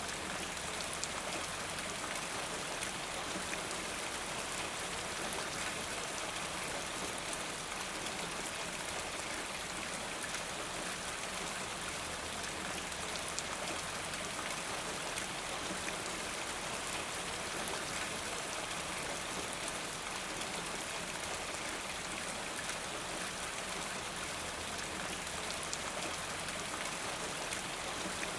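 Steady rain, an even hiss dotted with countless small drop ticks.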